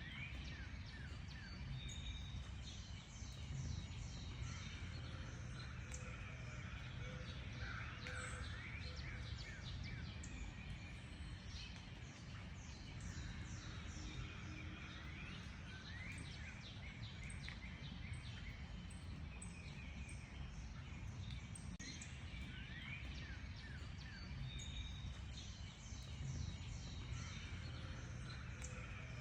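Many wild birds chirping and trilling at once, a dense chorus of short quick calls without a break, over a steady low rumble.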